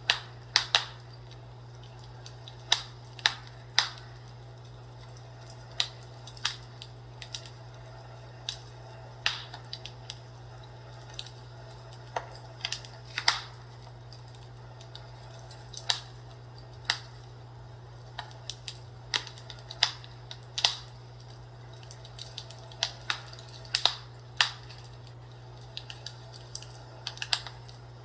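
Fireplace crackling with irregular sharp pops and snaps at uneven intervals, over a steady low hum.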